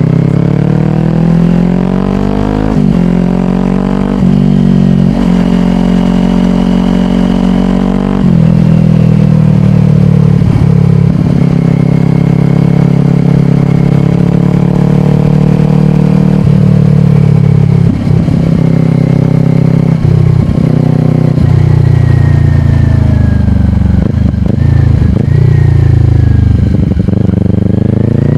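2022 Kawasaki Ninja 400's parallel-twin engine through a slip-on exhaust, revving up and shifting up through the gears in the first few seconds, then running at fairly steady revs, with a few brief throttle changes and gear shifts later on.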